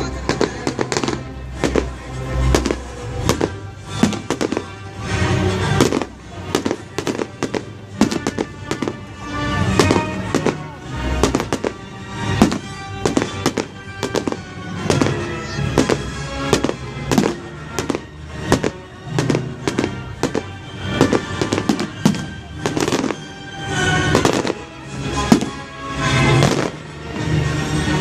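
Fireworks going off in rapid succession, a dense run of sharp bangs and crackles, with music playing underneath.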